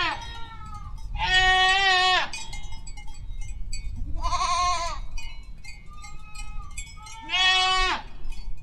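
Goats bleating: three loud, wavering bleats of about a second each, spaced a few seconds apart, with fainter calls between them.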